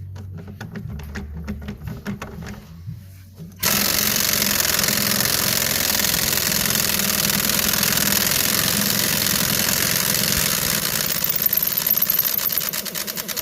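Background music, then a little over three seconds in a pneumatic impact wrench starts abruptly and runs steadily for about nine seconds, a loud hissing rattle of air and hammer, as used on the strut and suspension nuts during a shock absorber replacement.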